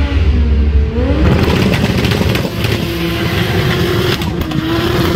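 Car engine revving hard: its pitch climbs about a second in, then holds at a steady high note under a loud rush of exhaust noise.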